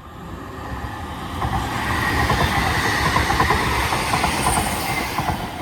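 Class 331 electric multiple unit moving through the station, growing louder over the first two seconds. Its rumble carries a steady high whine.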